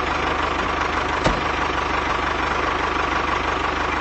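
DIY mini tractor's engine idling steadily with a fast, even low putter. A single sharp tap comes about a second in.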